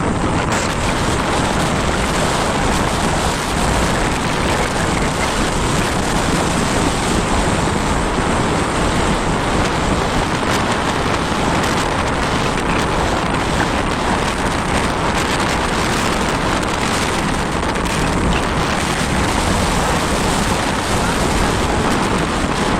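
Steady rush of wind on the microphone while riding a motorcycle, with vehicle noise underneath.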